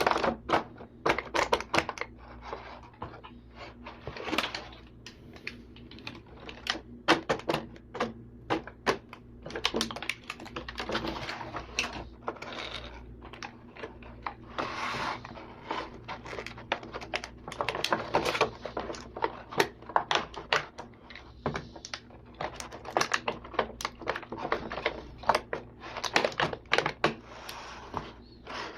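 Irregular run of light plastic clicks and clacks, toy vehicles and parts being handled and knocked together, over a faint steady hum.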